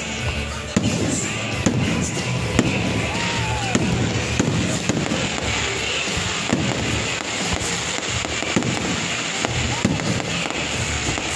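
Aerial fireworks shells bursting in a steady series of bangs, heard over background music and voices.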